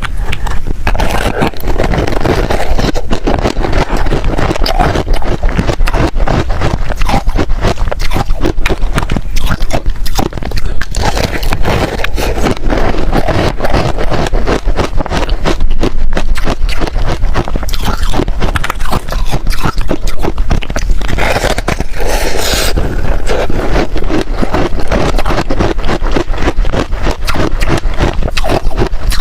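Close-up chewing of freezer frost ice: dense, irregular crunching and crackling that goes on without a break.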